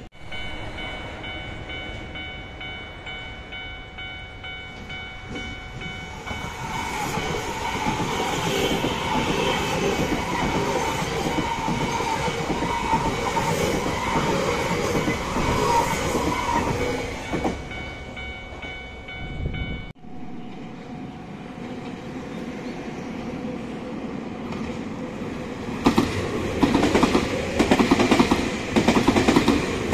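Nankai electric trains passing close by: a 9000-series stainless commuter train runs past, building up and easing off, with steady high tones under it in the first two-thirds. After an abrupt cut about two-thirds of the way in, a 7100-series and 10000-series limited express approaches, and near the end its wheels click rhythmically over the rail joints.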